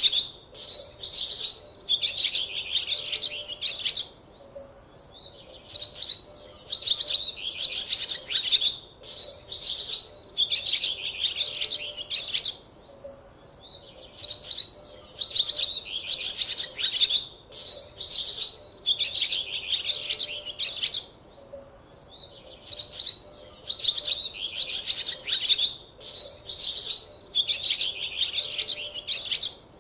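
Small birds chirping and twittering in bursts of a second or two with short pauses between, repeating steadily.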